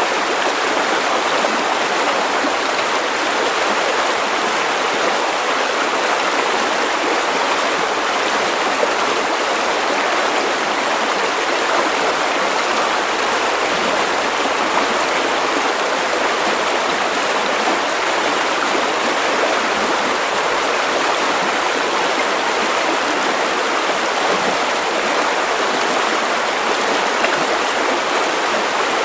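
River water running over stones in a steady, unbroken rush.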